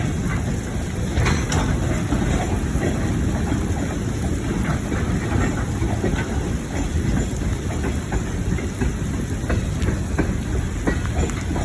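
A train passing: a steady rumble with the wheels clicking over the rails.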